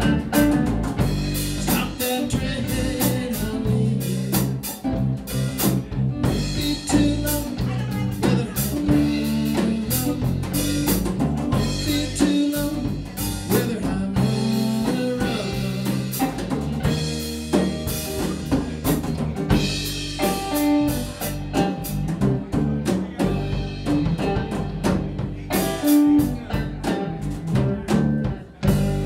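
Blues band playing an instrumental passage, with a drum kit keeping a steady beat under guitar.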